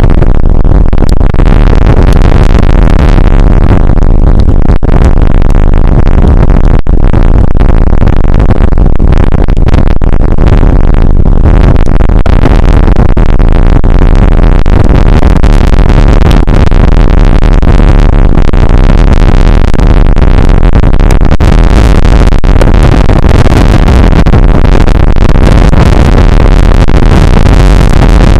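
Rain shower on an outdoor weather camera's microphone: a steady, heavily distorted noise loud enough to overload it.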